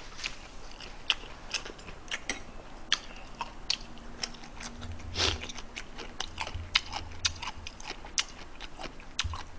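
A person chewing a mouthful of stir-fried pepper and pork strips with steamed bun, with many irregular small wet mouth clicks and smacks.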